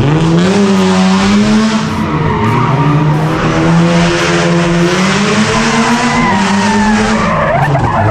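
A car drifting, its engine revving up sharply at the start and held at high revs, rising and falling, over tyres skidding and squealing.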